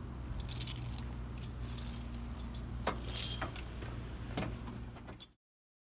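Light metallic clinks and jingles, several short clusters with a couple of sharp clicks, over a steady low engine hum. The sound cuts off suddenly about five seconds in.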